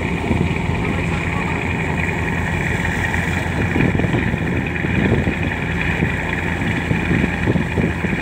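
Boat engine running steadily at a low, even hum, with a constant rush of wind and water over it.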